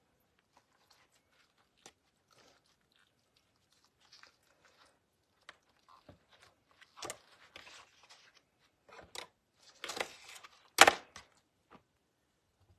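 Cabbage leaves being handled and rolled around filling: rustling, crinkling and crunching that grow louder in the second half, with the loudest crunch near the end.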